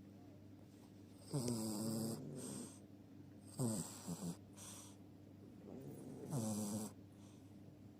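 Chihuahua snoring in its sleep: three snores about two and a half seconds apart, each starting high and dropping in pitch.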